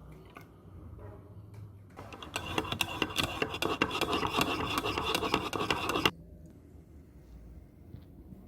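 A rapid, rasping scrape made of many fast clicks, lasting about four seconds and cutting off suddenly.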